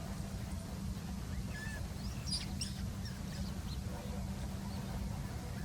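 Wild birds calling in a reed bed: scattered short, high chirps and squeaks, thickest in the middle, over a steady low rumble.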